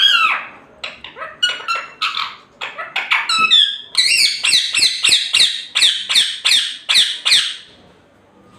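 Parrot squawking in short, sharp calls, irregular at first, then a quick even series of about three calls a second that stops near the end.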